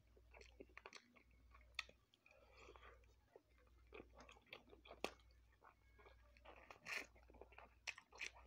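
Faint close-up chewing of spicy chicken wings, with many small wet mouth clicks and smacks.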